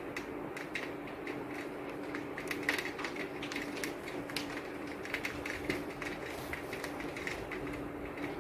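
Rain falling, with many irregular sharp ticks of drops striking a hard surface over a steady hiss, and a faint steady hum underneath.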